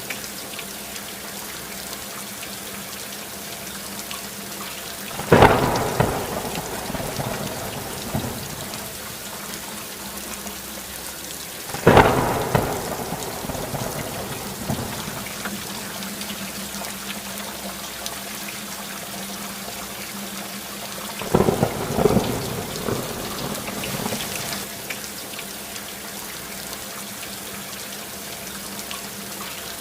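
Steady heavy rainfall with thunder cracking suddenly three times, about five seconds in, about twelve seconds in, and as a double crack about twenty-one seconds in, each rolling off over a second or two.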